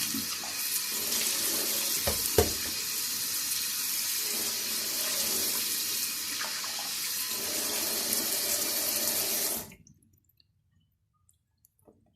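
Water running steadily from a tap into a sink, with a couple of knocks about two seconds in; the water cuts off suddenly near the end.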